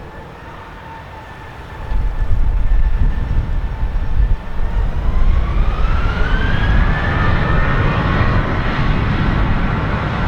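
Boeing 737-800's CFM56 turbofan engines spooling up for takeoff: a steady whine climbs in pitch from about halfway through and then holds at takeoff thrust. A loud low rumble comes in about two seconds in.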